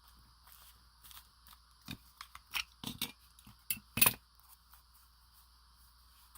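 Small spring clamps being unclipped from a freshly glued paper piece: a handful of sharp, irregularly spaced clicks and snaps, the loudest about four seconds in.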